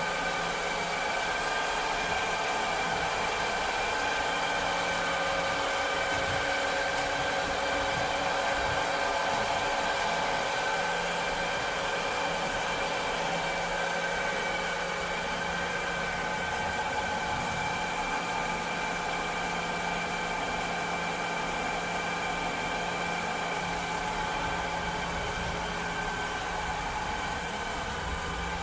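Cleaning robot running steadily: a motor whine of several steady high tones over a low hum and a haze of airflow noise.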